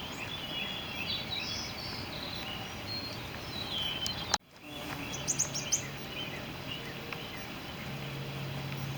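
Outdoor background noise with small birds chirping for the first few seconds. The sound drops out for an instant about four and a half seconds in, then come a few sharp clicks and a faint steady low hum.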